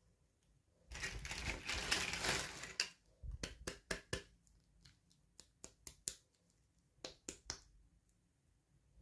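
Toy packaging being handled during unboxing: a crinkly rustle for about two seconds, then a run of sharp clicks and taps, like small plastic pieces and packaging being pulled apart and set down.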